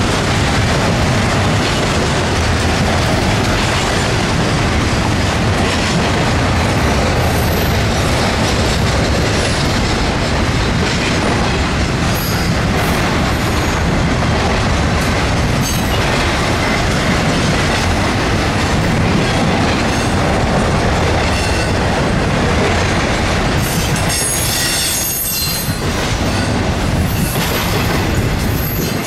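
Norfolk Southern double-stack intermodal freight train passing close by: a steady rumble and clatter of its cars' wheels over the rails. Near the end a high-pitched wheel squeal rises over it.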